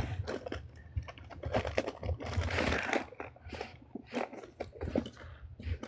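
Metal sockets and hand tools clinking and rattling as someone rummages through a tool bag.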